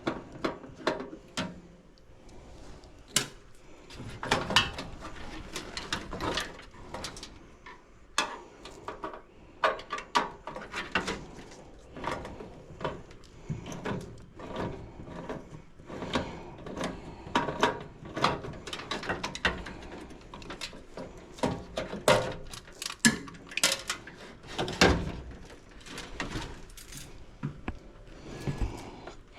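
Irregular knocks, clicks and clanks of metal parts and tools being handled during blower motor work, dozens of sharp strikes with no steady running sound.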